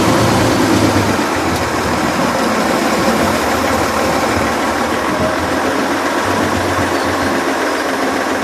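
Heavy diesel engine running steadily, a continuous loud mechanical drone with a low hum, as of an excavator at work.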